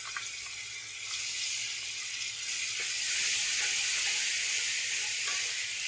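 Ginger-garlic paste sizzling as it fries in hot oil in a pan, the sizzle growing louder after about a second.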